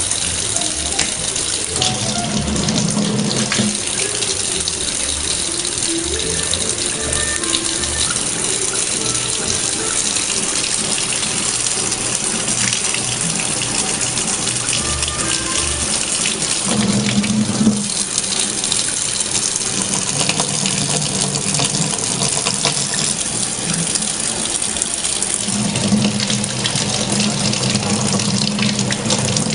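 Steady rush of running water, with music playing underneath.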